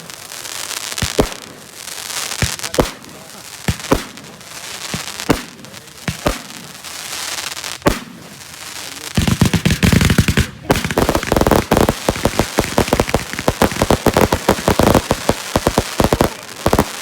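Consumer fireworks going off. For about nine seconds there are single sharp bangs roughly once a second with hissing between them. Then comes a dense, rapid string of bangs and crackles.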